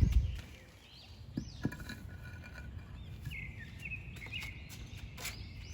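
Small birds chirping repeatedly over a low steady outdoor rumble. There is a heavy thump at the very start and two short knocks about a second and a half in.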